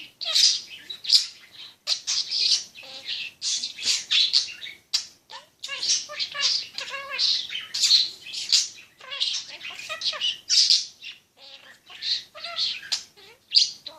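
Pet talking parrot chattering and squawking in a rapid run of short, high calls.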